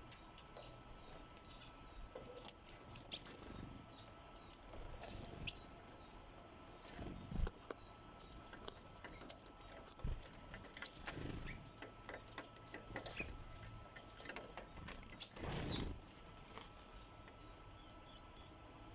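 Sparrows at a bird feeder: scattered taps and clicks of beaks pecking at the feeder, with a few short high chirps. About fifteen seconds in comes a louder burst with a high chirp.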